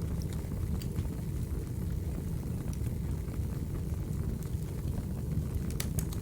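Wood fire burning: a steady low rumble with scattered small crackles and pops, and a quick cluster of pops near the end.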